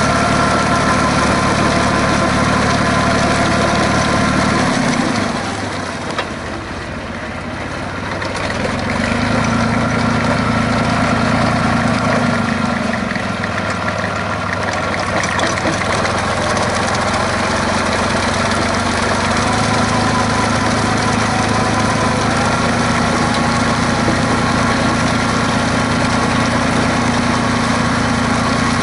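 Fiat DT 45-66 tractor's Iveco 8035.06 three-cylinder 2.7 L diesel engine running steadily. It drops quieter about five seconds in, with a single click, and comes back up about three seconds later at a slightly changed pitch.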